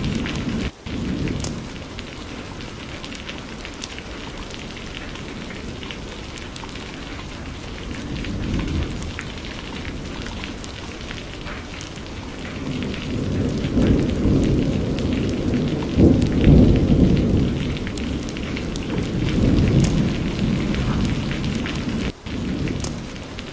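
Steady rain with scattered drop ticks, under a low rolling thunder rumble that builds twice, the longer roll in the middle.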